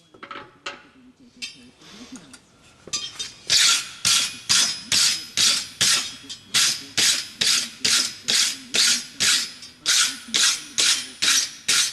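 Blacksmith's hand hammer striking hot square steel bar stock on an anvil to draw it out into a thinner handle. A few light knocks give way, a few seconds in, to a steady run of ringing blows at about two to three a second.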